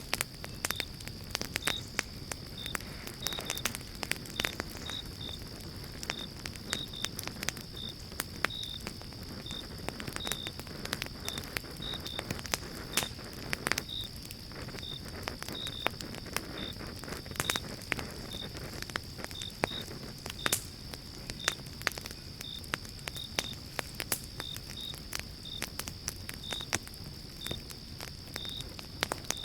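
Pine-log campfire crackling and popping in frequent sharp snaps over a soft low rush of flame. Behind it runs a steady high insect trill, with crickets chirping in short notes about twice a second.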